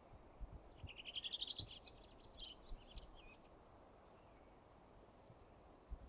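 A songbird sings one phrase of about two and a half seconds: a rapid run of high notes followed by a few varied notes. A few soft low thumps come in under it.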